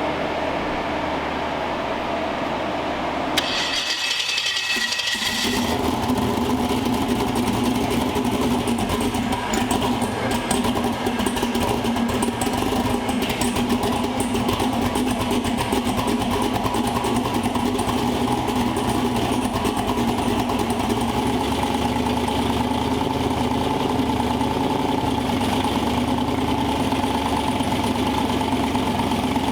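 A starter cranks the 5.3-litre aluminum LS V8 in a twin-turbo Chevy Vega for about two seconds, then the engine catches and runs steadily.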